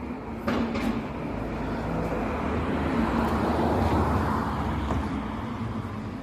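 A motor vehicle passing by: a rumbling road noise that swells to its loudest about four seconds in and then fades, with a couple of sharp clicks near the start.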